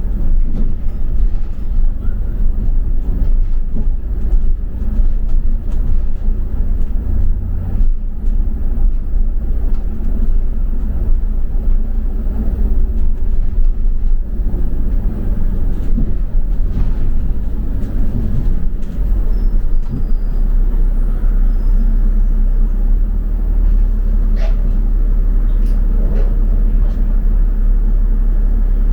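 Double-decker bus running, heard from inside the passenger cabin as a steady low engine and road rumble that settles into a smoother, even drone about two-thirds of the way through.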